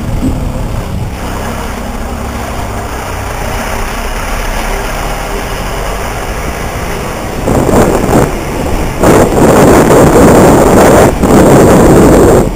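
Motorcycle engine running steadily. About seven and a half seconds in, a much louder rough rushing noise takes over and swells and dips several times.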